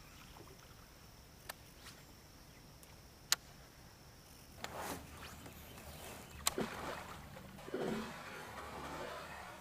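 Kayak on the water: a few sharp knocks against the hull and swishing water from paddling.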